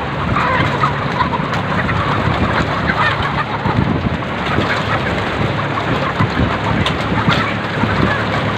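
Many laying hens clucking and calling together in a dense, continuous chatter, over a steady low hum.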